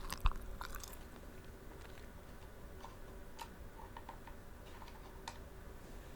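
Close-miked chewing of tanghulu, the hard candied sugar shell crunching in the first second, then fading to scattered small mouth clicks and smacks.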